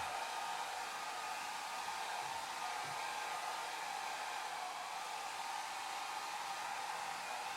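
Hair dryer running steadily: an even blowing hiss, strongest in a band just below 1 kHz, with a faint motor hum.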